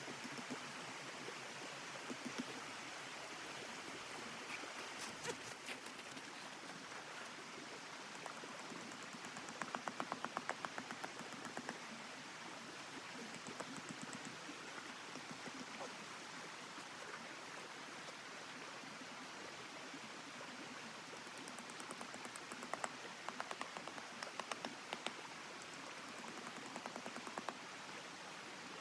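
Wood fire crackling, with scattered sharp pops in clusters, over a steady hiss of wind.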